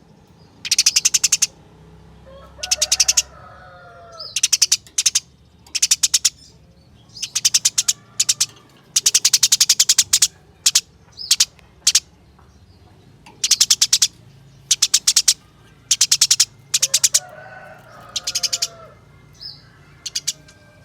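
Eurasian tree sparrow giving its rapid, rattling fighting chatter: short bursts of quick high notes, each half a second to a second long, repeated about once a second. A lower, wavering call comes in twice, about three seconds in and near the end.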